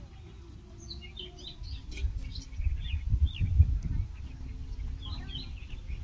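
Small birds chirping in quick, high twittering runs, about a second in and again near the end, over a low, uneven rumble that swells in the middle.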